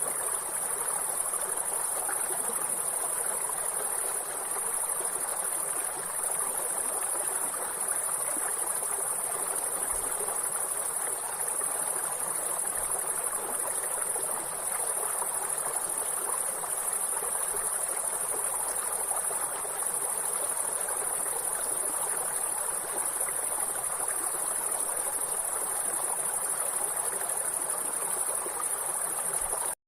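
Steady high-pitched chorus of insects over the even rush of a stream.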